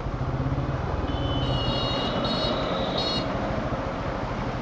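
Single-cylinder engine of a TVS Apache RTR 160 motorcycle running steadily while riding, with road and wind noise. A few short, high-pitched beeps sound between about one and three seconds in.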